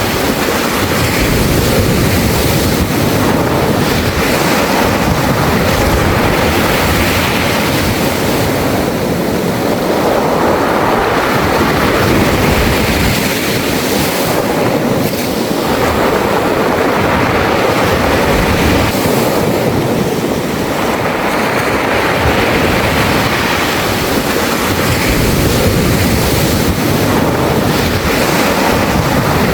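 Sea waves washing in and out over a beach of smooth round pebbles, the stones rattling in the wash. The surf comes in slow surges that swell and ease every several seconds.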